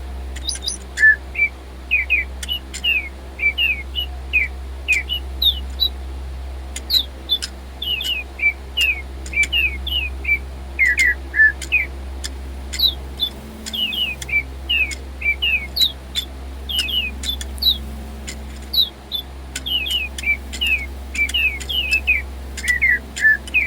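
DigiBird electronic robot toy birds chirping nonstop: a rapid string of short, downward-sliding tweets with sharp clicks among them. The owner takes their odd behaviour for batteries running low.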